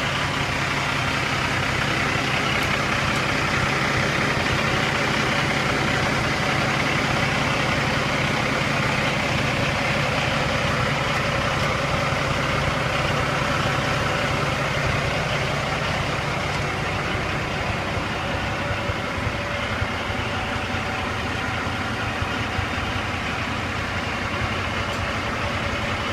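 Cummins ISX diesel engine of a heavy dump truck idling steadily.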